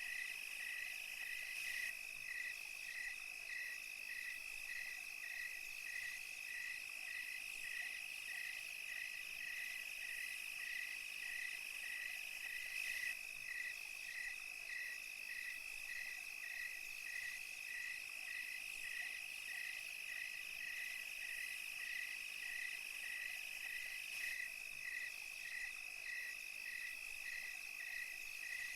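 Night chorus of crickets and other insects: a steady high trill with a second caller chirping regularly, about two or three chirps a second, over a faint high insect hiss.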